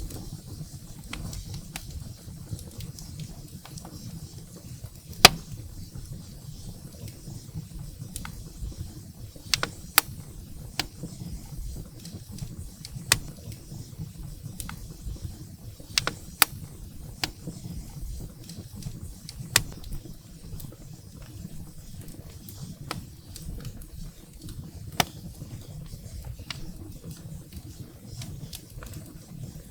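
Wood fire burning in a fireplace: a low steady rumble of flame with frequent sharp crackles and pops from the burning firewood, the loudest pop about five seconds in.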